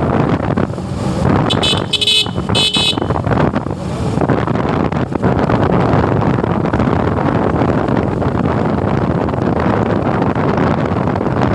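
Wind rushing over the microphone of a moving motorcycle. About two seconds in, a high-pitched vehicle horn sounds a few short toots.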